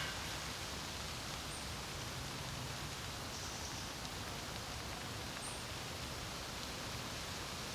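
Steady wind with a rustling hiss, and a few faint, short, high bird chirps, three in all.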